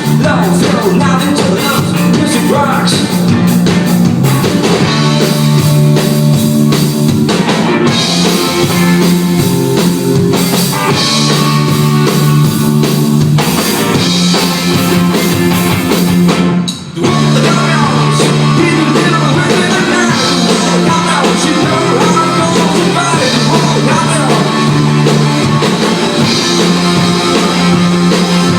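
Indie rock band playing live, with drum kit and electric guitars, the whole band cutting out for a moment about seventeen seconds in before coming back in.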